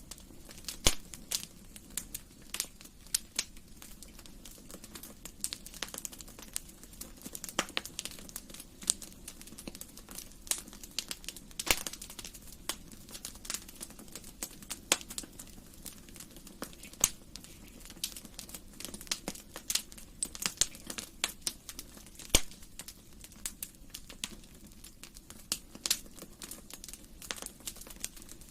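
Wood fire crackling in a fireplace: irregular sharp pops and snaps, several a second, over a soft low steady rush of burning.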